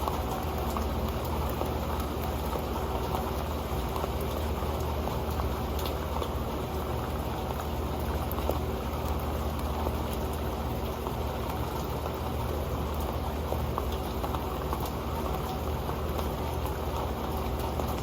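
Rain falling on an old pan: a steady, dense patter of drops ticking on the pan.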